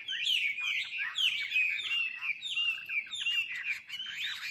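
Songbirds chirping and calling without pause, a dense run of quick sweeping high notes overlapping one another.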